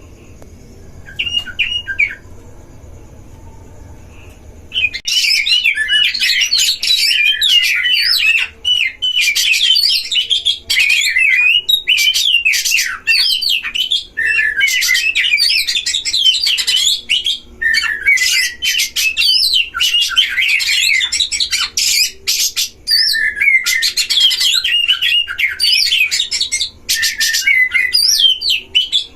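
Oriental magpie-robin (kacer) singing. A short phrase comes about a second in, then from about five seconds a loud, continuous, fast-varying song of whistles and chattering notes runs with only brief breaks.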